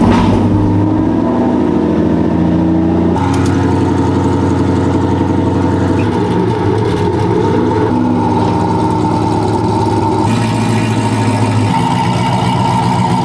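Turbocharged pickup truck engine running on a chassis dyno, held at steady speeds rather than swept, its pitch stepping to a new level about three seconds in and again near the end.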